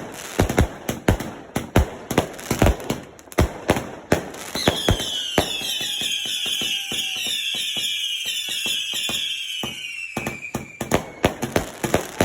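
Fireworks going off: a rapid run of sharp bangs, then, about four and a half seconds in, a dense swarm of falling whistles lasting about six seconds, before the bangs start again near the end.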